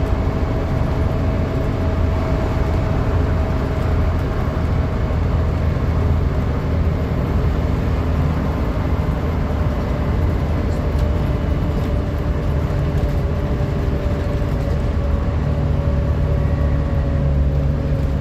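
Volvo B7TL double-decker bus's straight-six diesel running, a steady low rumble with a loud vacuum-cleaner-like whine (the "hoover" noise) held over it, sagging slightly in pitch; the engine note deepens near the end.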